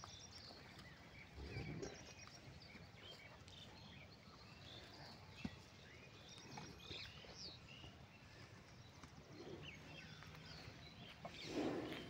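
Faint outdoor ambience with small birds chirping on and off, and two short low noises, one about a second and a half in and one just before the end.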